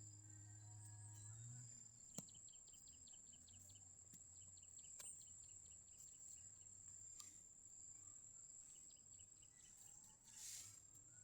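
Near silence with faint insect chirping: a thin, high, steady tone, and twice a run of quick, even ticks.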